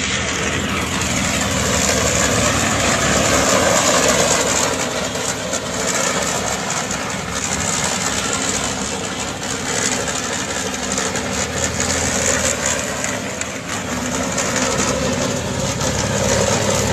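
Engine of a cut-down Renault car converted to carry a cement mixer drum, running steadily.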